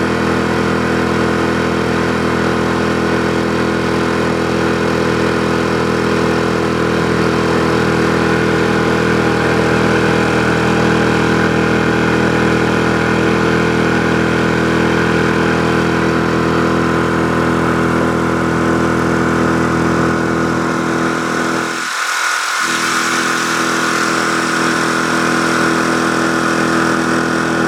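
HDX 5 hp four-stroke outboard motor running steadily at an even speed. About 22 seconds in, the deep part of the sound briefly drops out, and after that a hiss is louder.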